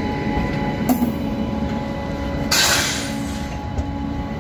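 Slow-moving Indian Railways express train passing close by, its luggage-cum-generator power car giving a steady hum over the rumble of wheels on rail. A sharp clank comes about a second in, and a short, loud hiss about two and a half seconds in.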